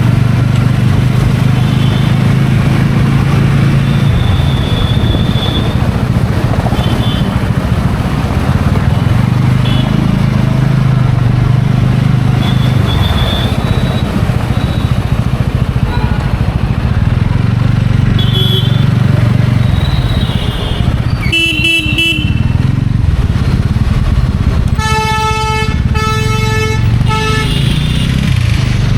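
TVS Ronin's single-cylinder engine running steadily while riding, under a rush of wind noise. A vehicle horn gives a short honk about two-thirds of the way through, then two longer honks follow near the end.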